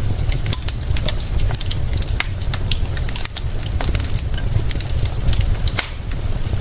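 Wood fire crackling, with frequent sharp irregular pops and snaps over a steady hiss and a constant low rumble.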